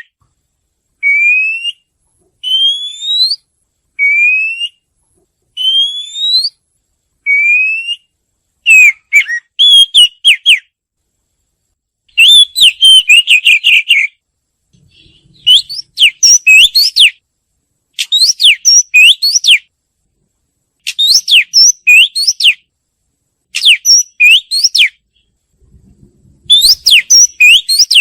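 Oriental magpie-robin singing. First comes a series of about five rising, drawn-out whistles, each under a second long. After that come fast, varied phrases of whistled notes, repeated about every two seconds.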